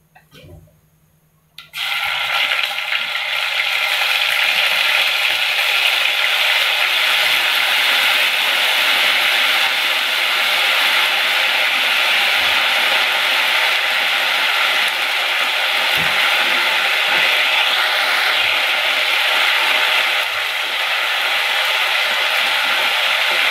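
Ginger-garlic paste hitting hot oil with cumin seeds and frying in a loud, steady sizzle that starts suddenly about two seconds in.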